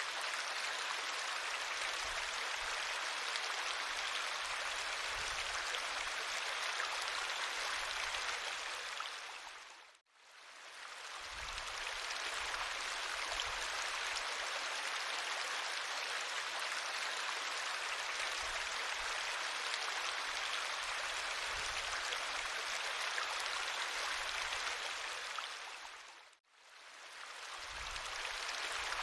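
River water flowing steadily, a constant rushing. It fades out to silence and straight back in twice, about ten seconds in and again near the end.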